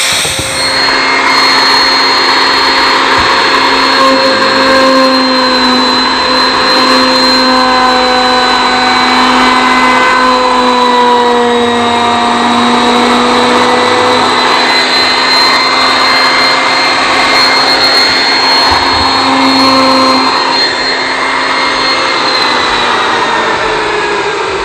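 A loud, steady motor whine over a rushing noise, its pitch drifting a little and sliding down near the end as it eases off.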